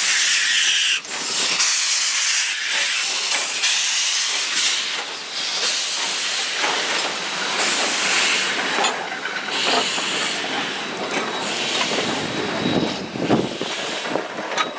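Western Pacific 165, an Alco 0-6-0 steam locomotive, hissing steam in repeated bursts that swell and fade every second or two as it works.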